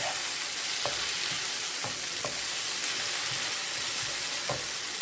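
Vegetables frying in oil in a pot: a steady sizzling hiss, with a few light knocks scattered through it.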